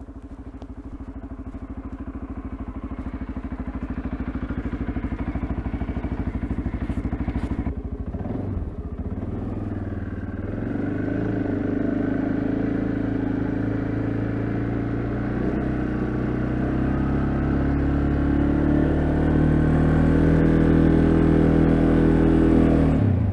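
CFMoto CForce ATV engine running with a fast, even pulse, its pitch shifting for a couple of seconds about a third of the way in, then running steadily and growing louder toward the end before cutting off abruptly.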